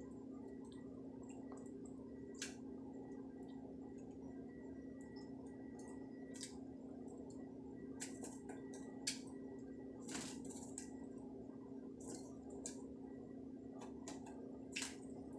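Pet lovebird bathing in a sink of water: scattered brief splashes and wing flicks at irregular intervals, the sharpest about nine and ten seconds in, over a steady low hum.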